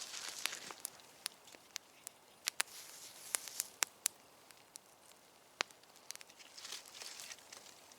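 Campfire of damp firewood burning, crackling with sharp, irregular pops, with a few short bursts of rustling in between.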